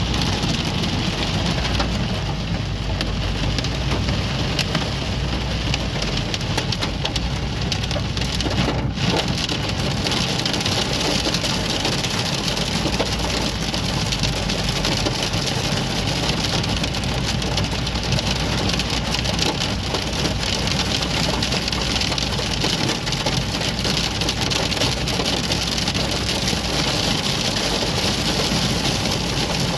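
Heavy rain and hail pelting a moving car: a dense, steady hiss thick with tiny ticks of drops and hailstones striking, over the low rumble of the car on the road.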